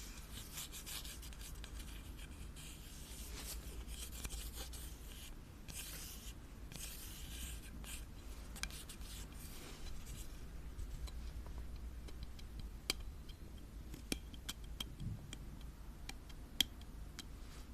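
Close-miked scratching and rubbing on an object's surface for about the first ten seconds, then mostly quiet with a few sharp, light clicks.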